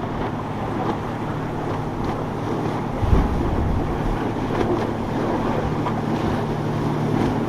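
Boat engines running steadily through the inlet, mixed with surf and wind buffeting the microphone; a low thump about three seconds in.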